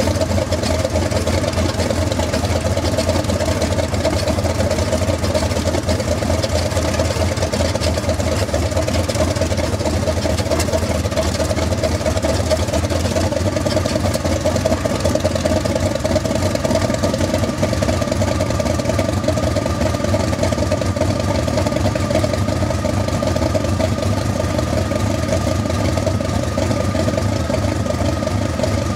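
Kamov Ka-26 helicopter's Vedeneyev M-14V-26 nine-cylinder radial engine running steadily with an even firing beat. A faint high whine joins about halfway through.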